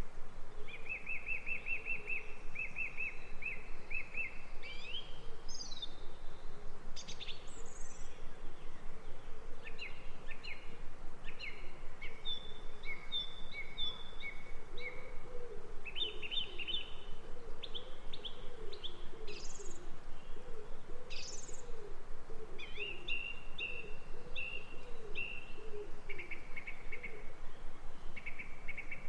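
Songbirds calling: rapid trills and short chirps from several birds, with a run of low wavering calls through the middle, over a steady background hiss.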